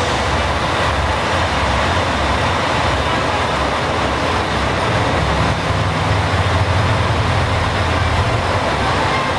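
A train running: a steady rolling rumble with a low hum underneath, swelling slightly partway through.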